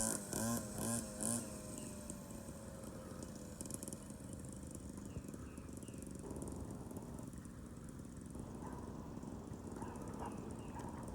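2021 SYX Moto 50cc kid's motorcycle engine revving in short pulses, then running at a steady, slowly falling pitch as it fades into the distance.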